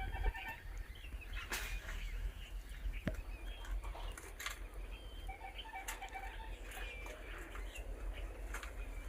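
Faint bird calls in short, rapid chattering runs, heard twice, over a steady low rumble, with a few scattered clicks.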